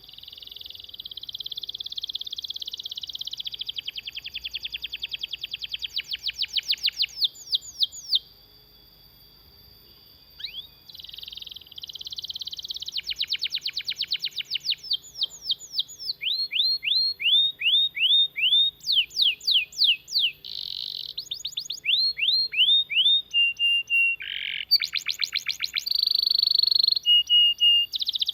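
Domestic canary singing long rolling trills: fast runs of rapidly repeated notes lasting several seconds each, with a break of a few seconds about a third of the way in.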